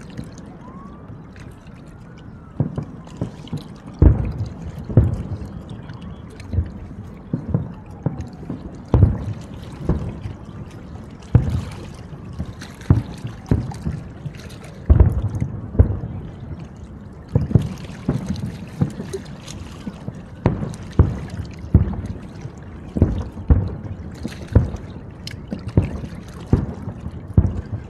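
Aerial firework shells bursting in an irregular volley of sharp booms, often several a second, with a few faint whistles in the first seconds.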